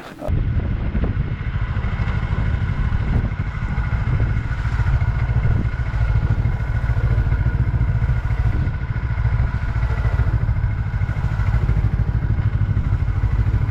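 Yamaha XS400 parallel-twin motorcycle engine running steadily while riding, heard from the rider's position with a heavy low rumble.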